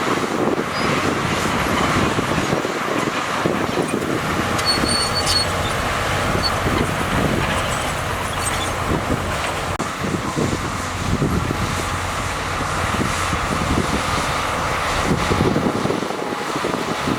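Heavy diesel earthmoving machinery running steadily: the engine noise of a bulldozer working soil on a road-building site.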